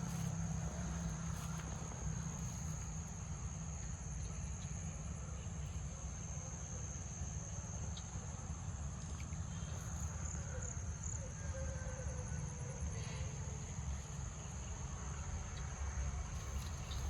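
Insects calling in one steady, high-pitched drone, over a continuous low rumble.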